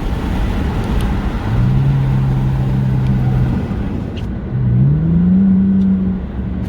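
Car engine pulling at a steady pitch, then rising in pitch as it accelerates about two-thirds of the way through, over a constant rush of road and wind noise heard from a moving car.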